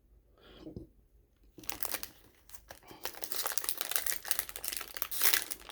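Plastic wrapper of a sealed baseball card pack crinkling as it is handled and opened, a dense run of crackles starting about a second and a half in.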